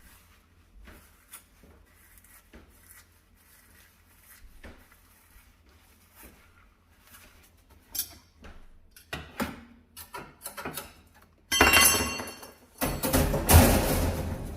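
Kitchen cleaning on a stove: light scattered taps and clicks of tools and parts being handled, growing louder about two thirds of the way in. Near the end come two loud rough noisy stretches of scrubbing or spraying, about a second each.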